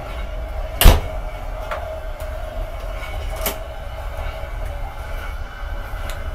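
Steady low rumble and hum of a moving passenger train, heard inside the plackart carriage's small toilet compartment. A single loud knock comes about a second in, and a lighter click a few seconds later.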